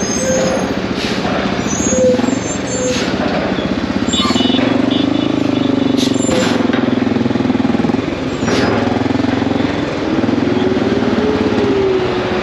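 Motorcycle engine running in a heavy city traffic jam, with large vehicles' engines nearby and a few short hisses. The engine pitch drifts up and down as traffic creeps along.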